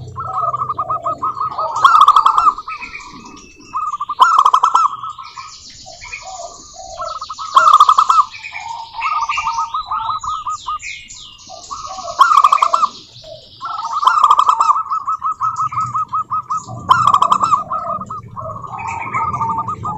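Zebra doves (perkutut) singing: repeated phrases of rapid, trilled cooing notes every two to three seconds, with higher chirps and whistles from other small birds between them.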